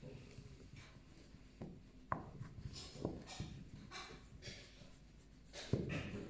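Fingers scratching through a pet's fur in a series of short scratchy strokes, with two sharp clicks, one about two seconds in and a louder one near the end.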